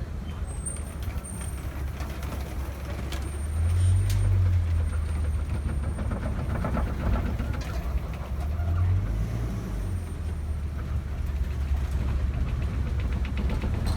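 Safari ride vehicle's engine and body rumbling low and steadily as it drives, the rumble swelling twice.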